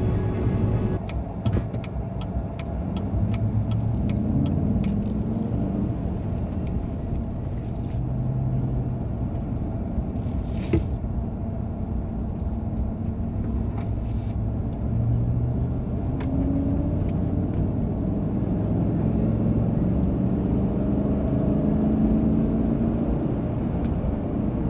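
Truck driving: a steady low engine and road rumble, the engine pitch drifting up and down, with a quick run of light ticks about a second and a half in and a single sharp click about halfway through.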